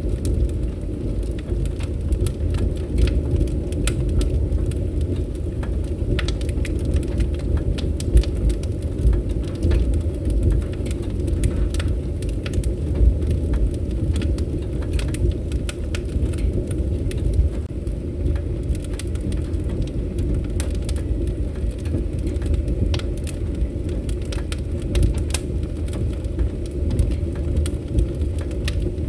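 Wood campfire crackling: many irregular sharp pops and snaps over a steady low rumble of burning.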